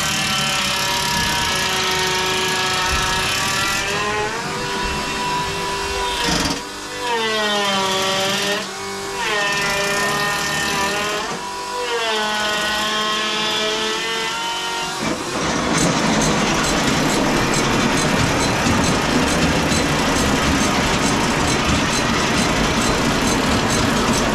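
Farm machinery engine running and changing speed for about fifteen seconds, then a steadier, rougher mechanical running with a fast clatter.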